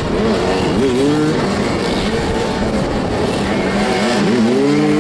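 Several motoball motorcycle engines revving up and dropping back, overlapping one another as the bikes manoeuvre.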